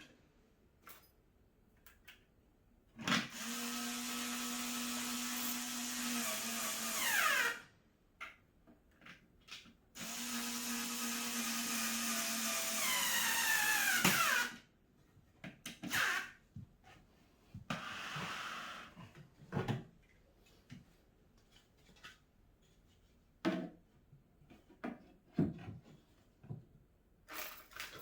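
A power drill-driver runs twice for about four seconds each, driving screws into the cat tower's parts; each run ends with the motor's pitch dropping as it stops. Between and after the runs come scattered clicks and knocks of parts being handled.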